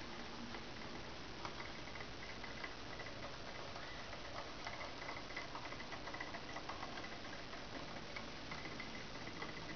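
Small N gauge model steam locomotive (a modified Minitrix) running on track: a faint, high motor whine that comes and goes, with light irregular ticking and clicking from the wheels and mechanism.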